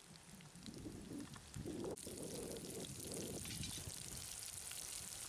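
Sliced onions and green chillies sizzling in oil in a kadai over a wood fire: a steady frying hiss that starts abruptly about two seconds in. Before it, scattered crackles from the burning twigs.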